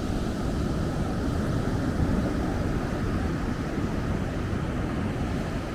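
Ocean surf washing onto the beach, a steady rushing noise with wind on the microphone.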